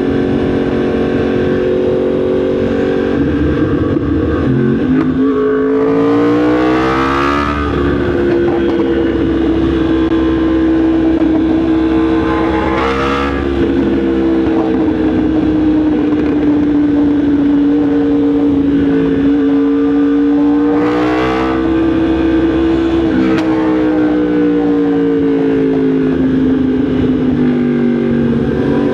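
Yamaha MT-10 SP's crossplane inline-four engine under way, its note rising and falling with the throttle. There are short sharp surges in pitch four times, typical of gear changes and throttle blips.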